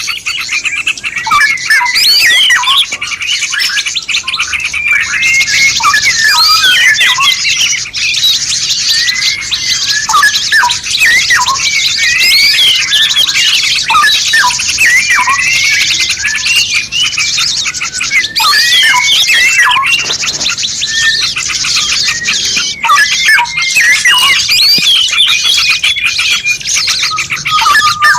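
Several songbirds calling and singing at once: a dense, continuous chorus of quick chirps and rising and falling whistles, over a steady high hiss.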